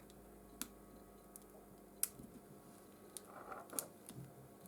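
Scattered faint clicks and ticks of a tool worked under the edge of a cracked iPhone 13 screen as it is pried up from the frame, with one sharper click about two seconds in.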